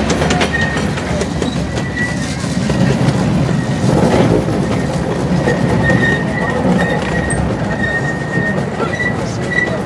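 Miniature park railway cars rolling along the track, heard from an open car: a steady rumble and rattle of wheels on the rails, with a thin, high wheel squeal that comes and goes.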